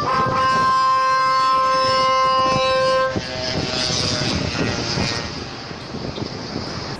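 Truck telolet horn holding one steady multi-tone chord for about three seconds, then cutting off suddenly. After it the truck's engine runs on with a high hiss, growing quieter toward the end.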